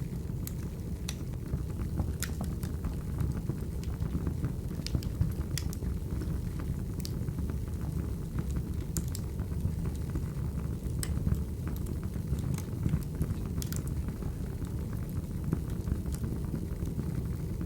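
Wood fire burning: a steady low rumble with irregular sharp crackles and pops scattered through it.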